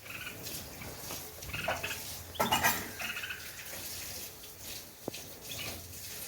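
Birds chirping: a string of short, scratchy calls, the loudest about two and a half seconds in, with a single sharp click near five seconds.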